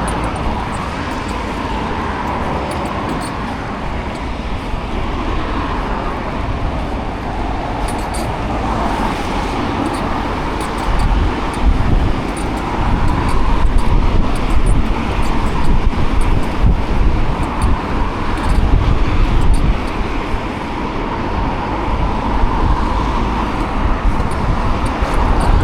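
Road traffic noise heard while riding an e-bike along city streets, with a low rumble on the microphone that grows heavier and gustier about eleven seconds in.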